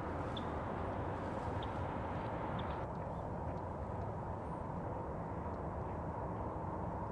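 Steady road traffic noise from surrounding streets, an even rumble and hiss, with a few faint short bird chips in the first three seconds.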